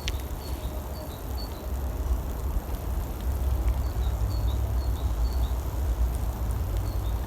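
Steady low rumble, with a small bird calling over it: three short phrases of quick, high two-note chirps, each pair stepping down in pitch.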